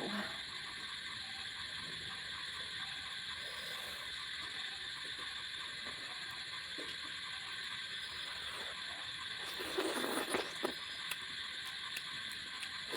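Eating sounds: close-miked chewing and small wet mouth clicks over a steady background hiss, with a few louder smacking bursts about ten seconds in.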